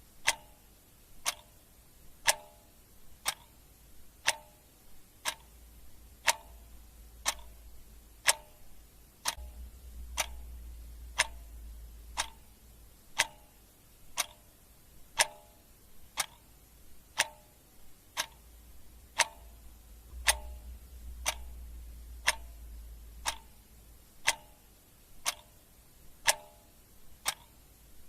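Clock ticking steadily, a sharp tick about once a second.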